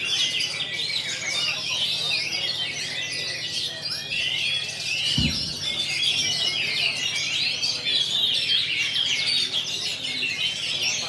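Many oriental magpie-robins (kacer) singing at once, a dense, continuous overlapping chatter of whistles, trills and chirps, with a single low thump about halfway through.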